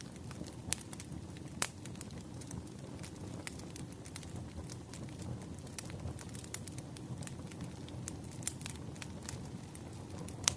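Campfire burning, a steady low rumble of flames with frequent sharp, irregular crackles and pops from the wood.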